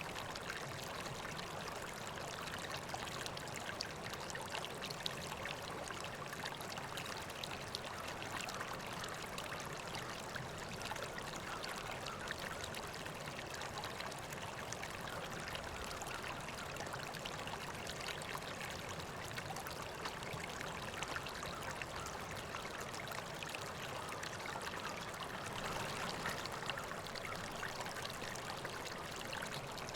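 River water flowing steadily over stones, an even rushing with fine trickling and splashing.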